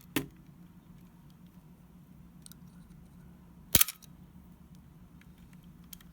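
Canon A-1 focal-plane shutter tripped by hand through its first-curtain electromagnet: a click just after the start, then a louder, sharp double snap of the shutter curtains about four seconds in, with a few faint ticks of the mechanism.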